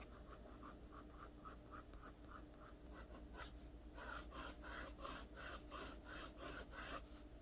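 Graphite pencil drawing on paper: quick, even strokes, about three a second, laying in long hair lines. The strokes grow louder about halfway through.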